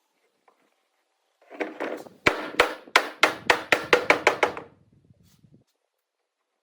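Hammer blows on wood: about ten sharp knocks in a little over two seconds, coming faster toward the end, with a short rustle just before.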